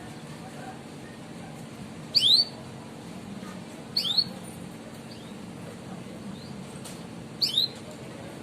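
Domestic canary giving its sharp 'cuit' call: three short bursts of high chirps, about two to three seconds apart.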